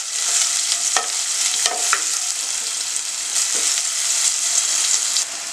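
Chopped onion, green chilli, cumin and fennel seeds sizzling in hot oil in a nonstick pan while a wooden spatula stirs them, knocking against the pan a few times.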